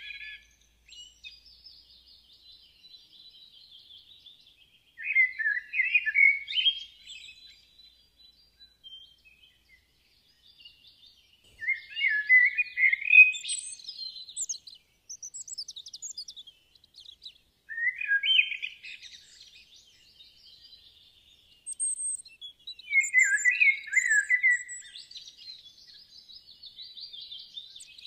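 Birdsong: bursts of chirping song phrases about every five to six seconds, with fainter high twittering in between.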